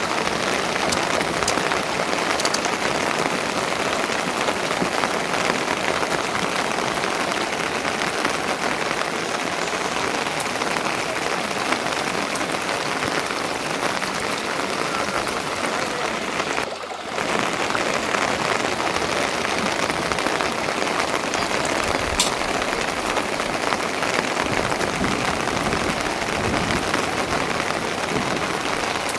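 Steady rain falling, an even hiss of drops that dips briefly a little past the middle.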